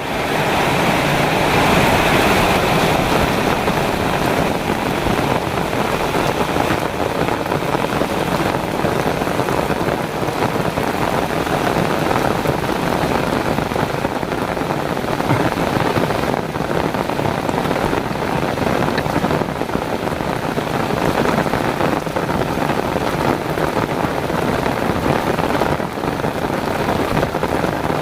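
Heavy rain pouring down steadily, a dense, even hiss that sets in at full strength right at the start.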